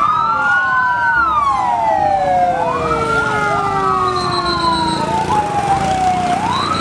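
Electronic fire-engine siren wailing: its pitch rises quickly and then falls slowly, twice, with several sweeps overlapping, and a short high beeping tone in the middle and again near the end.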